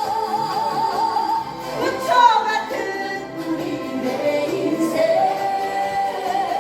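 Music with singing: a long held note with a wavering vibrato for the first second and a half, then a melody that slides up and down.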